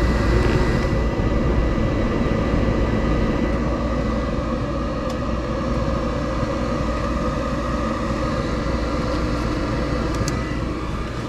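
Gas furnace running steadily in heat mode, its inducer motor and burners going with a low hum. It runs normally with R jumpered to W, a sign that the furnace itself is sound and the thermostat is not calling for heat.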